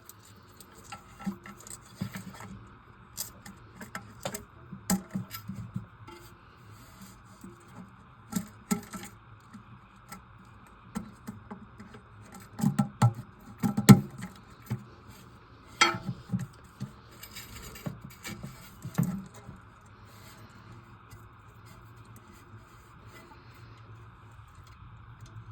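Scattered clicks, knocks and rubbing from toilet parts being handled and fitted, with a burst of heavier knocks around the middle.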